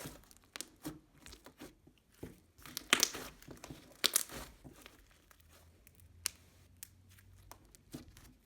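Paper or plastic packaging being torn and crinkled in irregular rustles and sharp crackles, loudest about three and four seconds in, then quieter.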